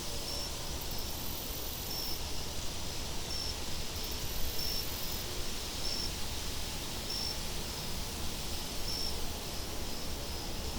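Steady wind noise with a cricket chirping through it, short high chirps about once a second. A thin, very high hiss comes and goes in the first half.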